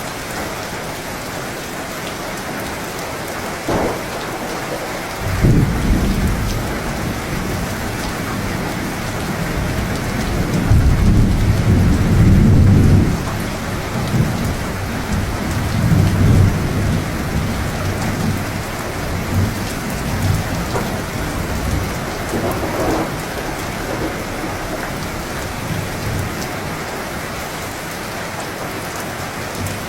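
Steady heavy rain hissing, with thunder rolling in about five seconds in, rumbling loudest a few seconds later and fading away in lighter rolls over the following ten seconds.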